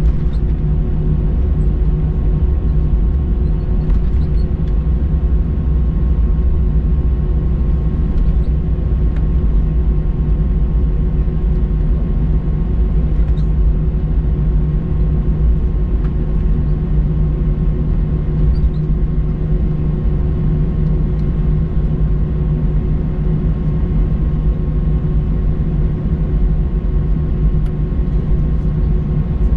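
Cabin noise of an Airbus A321-200 taxiing after landing: a steady low rumble of engines at idle with a constant hum over it.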